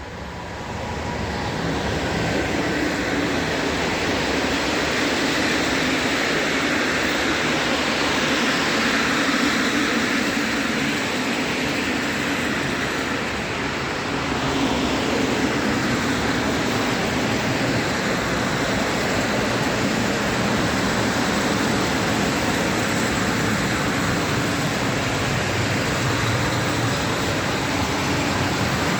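A train passing close by on the line, a steady rumble and rail noise that builds over the first two seconds and then holds for the whole stretch, as from a long train.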